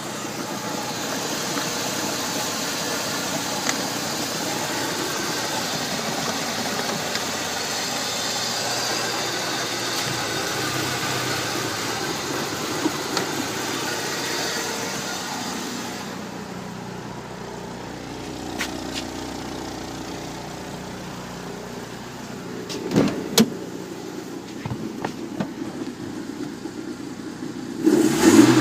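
Used BMW car engine idling steadily on a test run. About halfway through the sound turns duller and quieter, with a few sharp knocks, and near the end the engine suddenly gets louder as it is revved.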